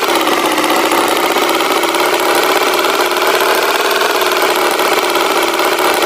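Tractor engine sound effect running steadily at an even idle-like pitch.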